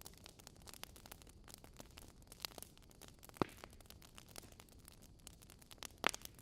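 Fire crackling faintly: a steady patter of small snaps with two louder pops, about a third of the way in and near the end.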